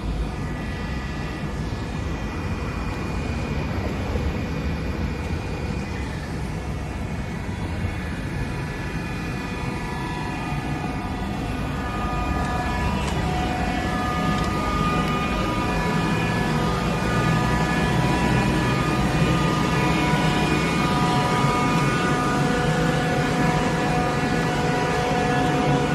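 Steady mechanical running noise with a low rumble and several steady tones, growing louder about halfway through.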